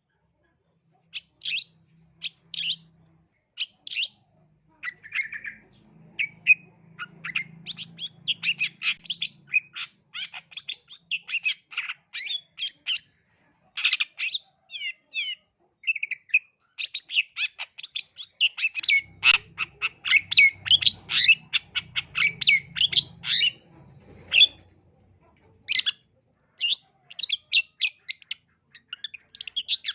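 Long-tailed shrike (cendet) singing in fast runs of short, sharp chattering and squawking notes, broken by brief pauses.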